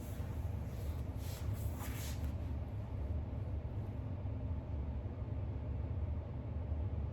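A steady low background rumble, with a brief soft rustle of a book page being turned about a second in.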